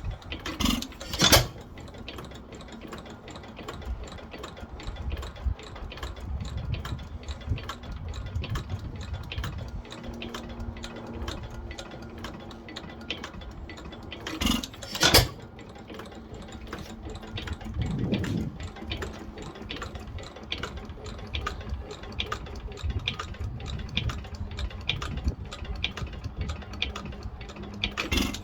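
1912 Pilter YA stationary engine running with a steady, fast mechanical clatter, broken by louder sharp bangs about a second in and again about halfway through.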